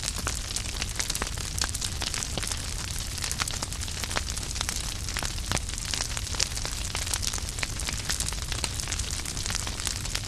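Wood fire burning in a fireplace, crackling steadily with many small sharp pops and snaps over a low rumble of the flames.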